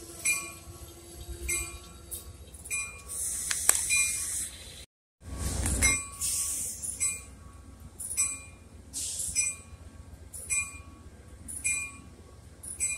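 Amtrak stainless-steel passenger cars rolling slowly past over a low rumble, with sharp ringing metallic clinks from the wheels and rails about once a second. There is a short hiss about three seconds in, and the sound cuts out for a moment about five seconds in.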